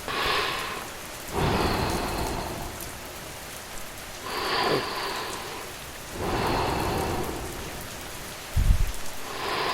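Steady rainfall whose hiss swells and fades every two or three seconds, with one short low thump about a second before the end.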